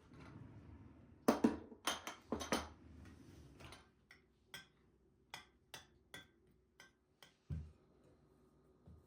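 Dishes and utensils being handled: a few clattering knocks in the first three seconds, then a run of sharp separate clicks, and a dull thud about seven and a half seconds in.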